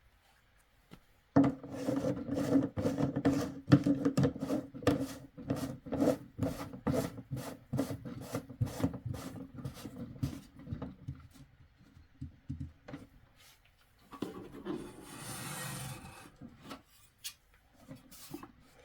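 Rhythmic rubbing and scraping on the diesel heater's plastic casing, about three strokes a second, starting about a second and a half in and stopping about two-thirds of the way through; a softer hiss of handling follows.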